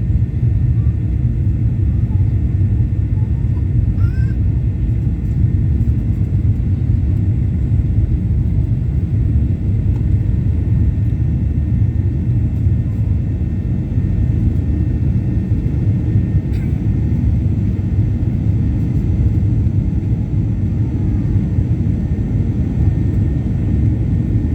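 Steady low rumble of Boeing 737-800 cabin noise, with no change in level.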